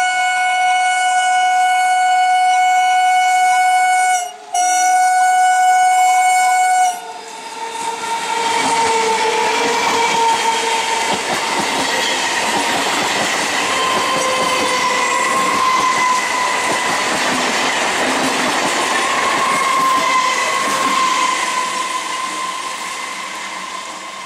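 A 9-coach Indian Railways EMU local train sounds its horn in two long blasts, about four seconds and then two and a half seconds. It then passes close by, its wheels rumbling and clattering over the rails, and fades near the end.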